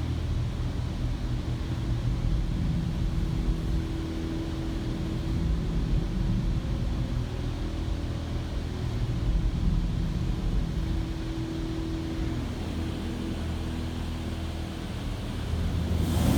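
PDQ LaserWash M5 touchless car wash doing its high-pressure rinse, heard from inside the car: a steady muffled rumble of the water jets and pump, with a faint steady hum. Near the end the spray noise grows suddenly louder and hissier as the jets come close.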